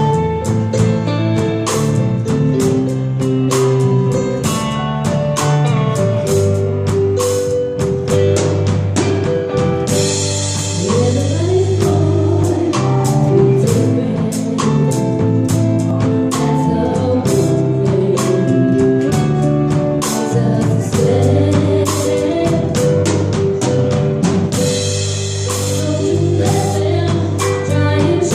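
Live band playing a pop cover: a drum kit keeps a steady beat under bass and chords, with a voice singing over it.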